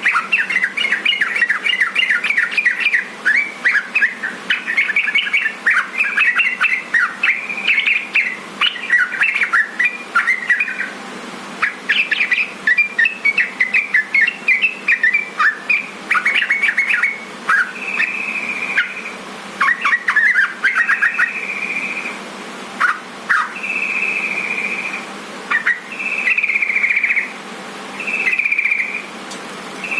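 Yellow-vented bulbul (trucukan) song: fast, bubbling chattering phrases for the first half, then a run of drawn-out whistled notes about a second long, repeated every two to three seconds.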